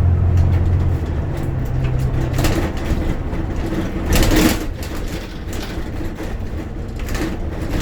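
Bus engine running with road noise, heard from inside the cabin; the low engine hum is strong at first and falls away after a couple of seconds. A short, louder rushing sound comes about four seconds in.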